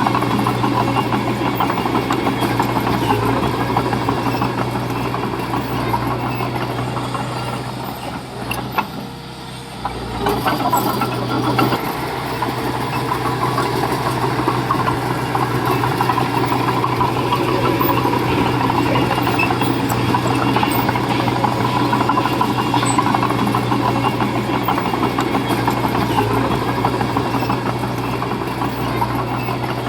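Heavy diesel construction machinery running steadily under work, with a strong low engine drone. The sound eases off briefly about nine seconds in and then picks up again.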